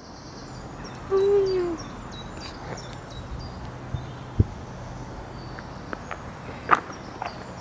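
A single low hooting bird call, about two-thirds of a second long, dipping slightly in pitch at its end, over steady outdoor background noise. A dull knock and a sharp click come later.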